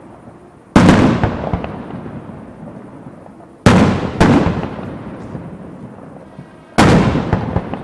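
Fireworks shells bursting with four loud bangs: one about a second in, two close together near the middle, and one near the end. Each bang is followed by a long rolling echo that slowly fades.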